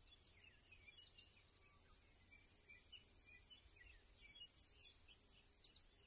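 Faint birdsong: many short chirps and trills from several birds, over a low steady background rumble.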